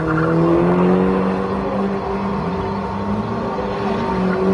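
Car engine running at a steady, raised speed, its note rising slightly in the first second and then holding.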